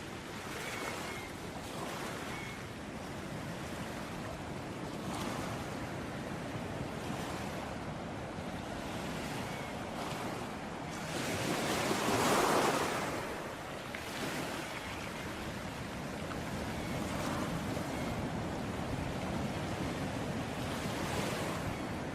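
Ocean waves washing in steadily, with one wave breaking louder about halfway through.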